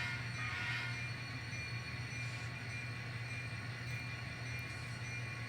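Sound-equipped N scale model locomotive creeping forward, its onboard sound giving a steady low engine drone with faint steady high tones, and a short brighter sound in the first second.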